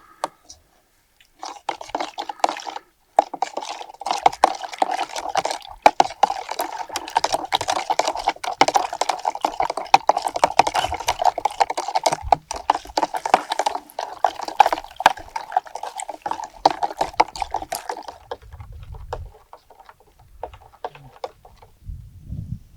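Water running or pouring into a container. It starts about a second and a half in, breaks off briefly, runs on steadily and stops about three-quarters of the way through. Low rumbles and a few clicks follow.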